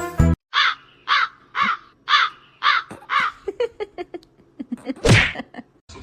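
An animal calling: about six harsh calls roughly half a second apart, then a run of shorter, quicker calls and one loud call about five seconds in. Background music cuts off just before the calls begin.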